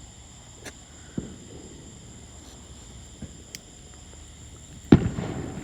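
A steady, high-pitched chorus of insects, with a few faint distant pops, then one loud firework bang about five seconds in that echoes away.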